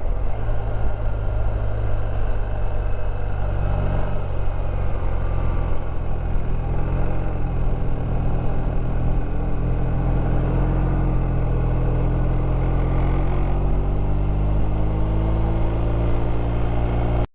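BMW R1250 RT's boxer-twin engine running steadily under load on a climb, with wind and road noise. The engine note rises slowly near the end.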